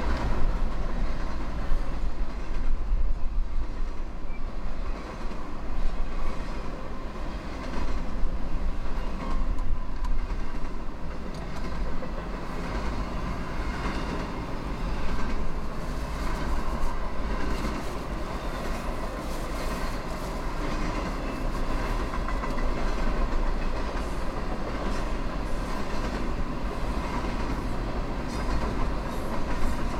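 Freight train cars rolling past: a steady wheel-on-rail rumble with clickety-clack as the wheels cross rail joints, rising and falling in waves as the cars go by.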